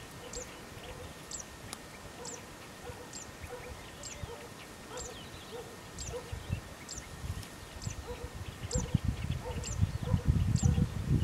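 A small bird repeating a short, very high call a little faster than once a second, with fainter lower notes in between. A low, gusty rumble builds over the last few seconds.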